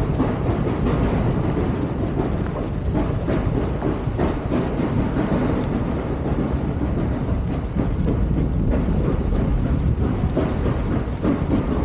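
Steam train running, a steady low rumble with scattered sharp clicks.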